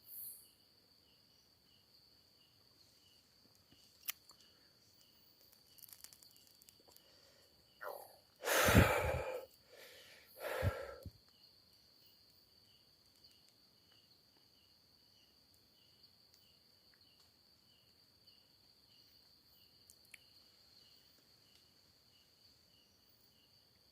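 Night insects: a steady high-pitched trill with a regular chirping beneath it. Two short, loud rushes of noise come about eight and a half and ten and a half seconds in.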